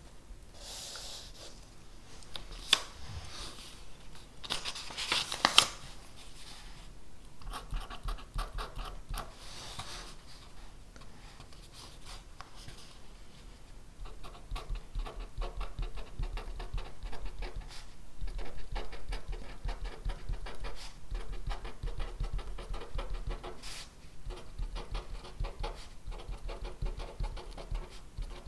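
Handwriting on paper: a dense run of fine, fast scratching strokes, with a few sharper taps in the first several seconds.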